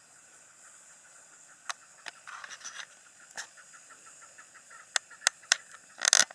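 Pigs feeding: quick, rhythmic chewing and crunching with several sharp cracks, over a steady hiss. A short louder rustle comes near the end, then the sound cuts off.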